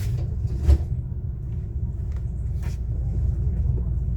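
Interior running noise of a JR West 125 series electric railcar: a steady low rumble of the wheels on the rails, with a single low thump about two thirds of a second in.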